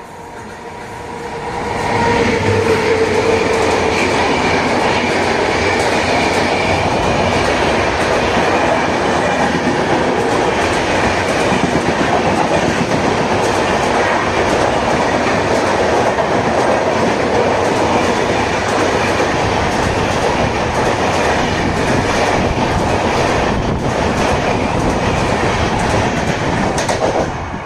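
A train running past close by: a loud, steady rush of rail and wheel noise that builds over the first two seconds, holds, and drops away near the end.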